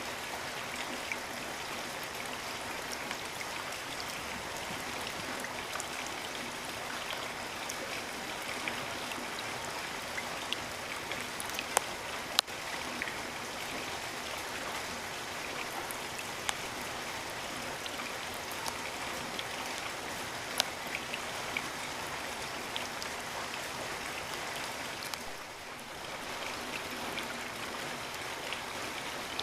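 Steady rainfall, an even hiss dotted with sharp ticks of individual drops, two louder drop hits about twelve seconds in. It briefly softens a little near the end.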